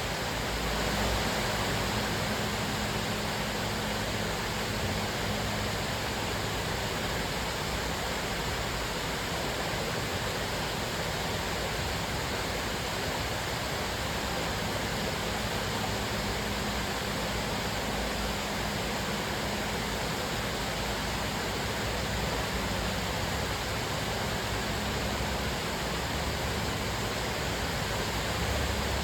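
Cascading waterfall: a steady, even rush of falling water.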